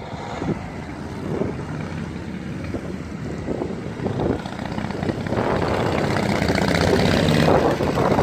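A vehicle engine running steadily, growing louder from about five seconds in.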